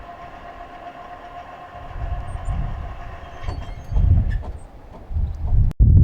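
A train running on the rails, with a steady ringing tone that fades over the first few seconds, then low rumbling surges. The sound cuts off sharply near the end.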